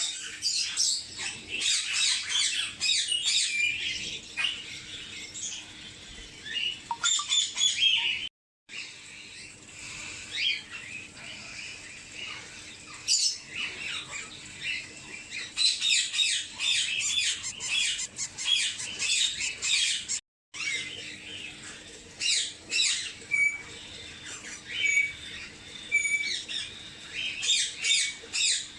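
Baby birds chirping and squawking in rapid, high-pitched bursts, over a faint steady low hum. The sound cuts out briefly twice.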